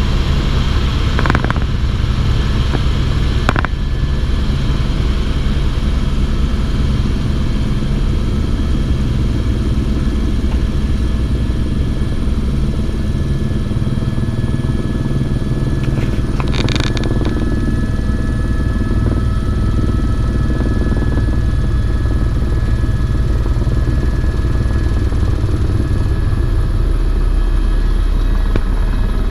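Helicopter in flight, heard from on board: steady loud rotor and engine noise throughout, with a short higher-pitched burst of noise about seventeen seconds in.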